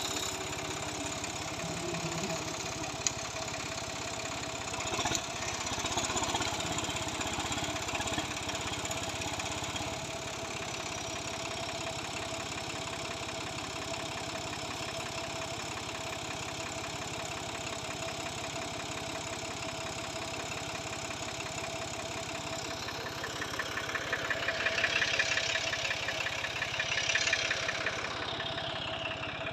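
Farm tractor engine idling steadily, with one sharp click about three seconds in; the engine grows louder for a few seconds near the end.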